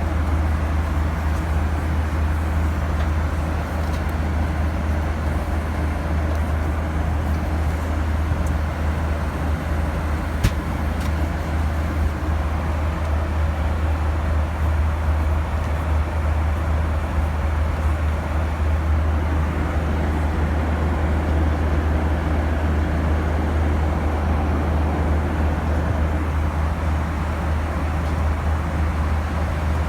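Steady cabin noise of a Boeing 737-900ER in flight: engine and airflow drone with a strong low hum. One short click about ten seconds in.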